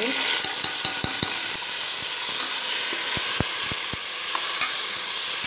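Chopped tomatoes and green chillies sizzling in hot ghee and browned onions in a pot as they are stirred with a spatula: a steady frying hiss with a few soft knocks of the spatula against the pot.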